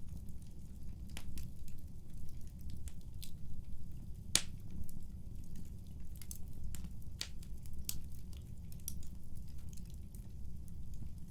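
Wood fire crackling in a fireplace: irregular sharp pops and snaps over a low, steady rumble of burning, with the loudest pop about four seconds in.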